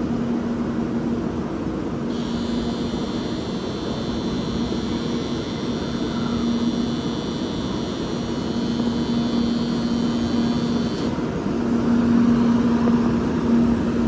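Shinkansen platform departure bell ringing steadily for about nine seconds, then cutting off suddenly, over the steady hum of an N700A bullet train standing at the platform before departure.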